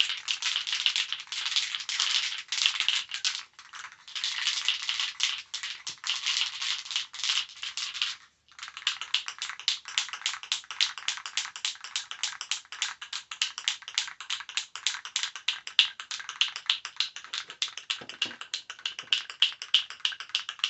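An aerosol can of spray paint being shaken, its mixing ball rattling rapidly and steadily, with a brief pause about eight seconds in.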